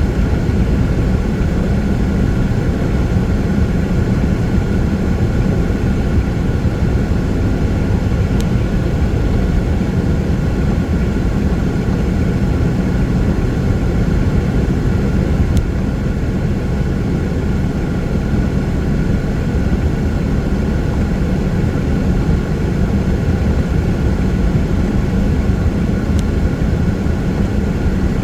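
Steady low road and engine drone of a vehicle driving at freeway speed on rain-wet pavement.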